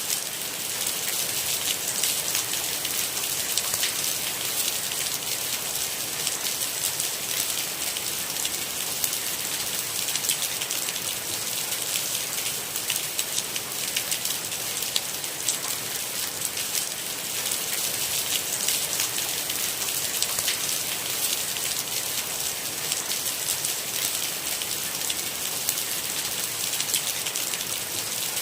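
Steady rain falling, a constant bright hiss dense with the ticks of individual drops.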